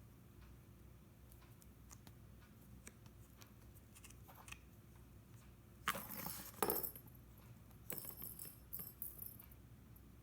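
A cat's toy jingling and clattering in short bursts as a cat plays with it: two quick bursts about six seconds in and a run of bright clinks near the end, with light ticks in between.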